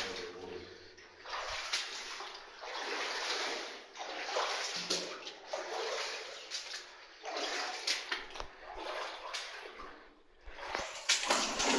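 Feet wading through shallow water in a flooded mine passage, a slosh and splash with each stride in a steady walking rhythm, pausing briefly near the end.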